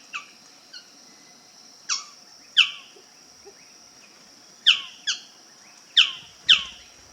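Male Magnificent Bird-of-paradise calling: a series of short, sharp notes that each fall steeply in pitch, about eight in all, mostly in pairs, over a steady high-pitched hum.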